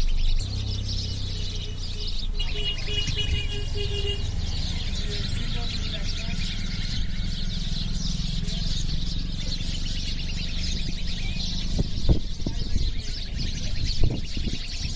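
A flock of house sparrows chirping continuously, many short chirps overlapping, over a low steady hum, with two brief low thumps near the end.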